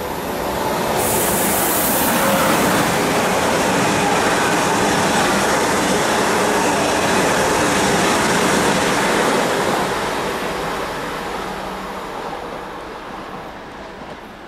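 An ICE-T high-speed electric multiple unit passing through the station without stopping: the rush of the train swells about a second in, stays loud for several seconds as the cars go by, then fades away as it leaves.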